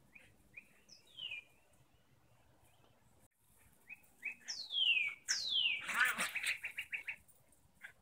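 Songbird singing: a few faint short chirps, then two high whistles sliding down in pitch followed by a quick trill.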